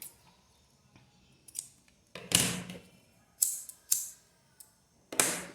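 Ribbon and craft materials being handled close up: five short scratchy rustles, the loudest about two seconds in.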